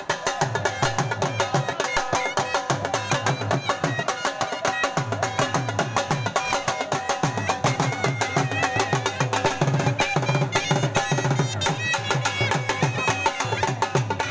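Dhol drumming at a fast, steady beat, with a melody line over the drums.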